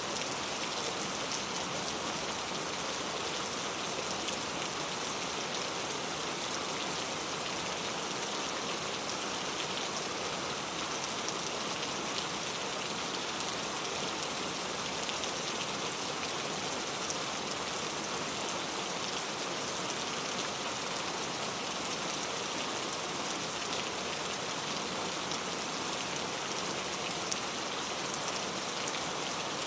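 Steady rainfall, an even hiss of drops with faint scattered ticks of individual drops.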